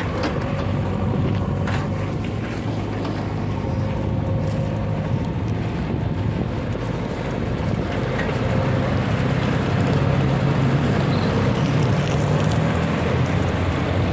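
Heavy diesel engine running steadily, a little louder from about eight seconds in.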